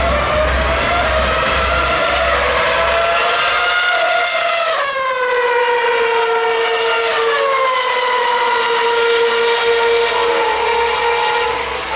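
A 2013 Formula 1 car's 2.4-litre V8 engine at very high revs, its high-pitched note climbing for about five seconds, then dropping sharply in pitch and settling into a lower, steady scream.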